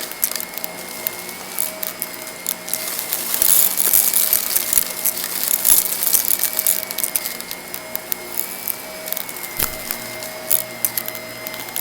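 Vacuum cleaner running with a steady motor whine, while grit and crunchy debris being sucked up rattle and click rapidly and unevenly through it.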